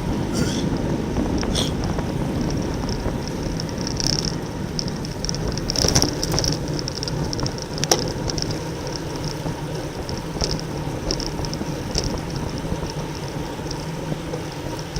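Road bicycle moving fast in a racing pack: steady wind rushing over the microphone, with intermittent high ticking and a few sharp clicks, the loudest about six and eight seconds in.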